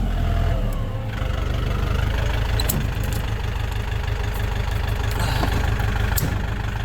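Vehicle engine idling steadily, a low even rumble, with a few faint clicks over it.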